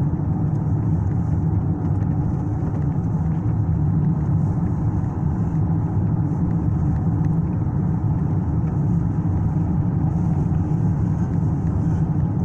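Steady low rumble heard from inside a car's cabin, with an even level throughout.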